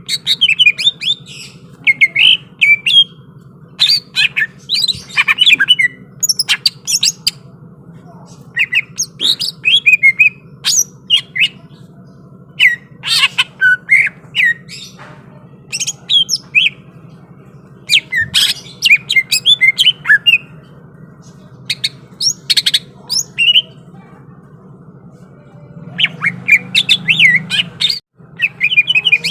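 Green leafbird (cucak ijo) singing in loud, rapid bursts of sharp, varied chirps and whistled notes, phrase after phrase with short pauses between. A steady low hum runs underneath and grows louder near the end.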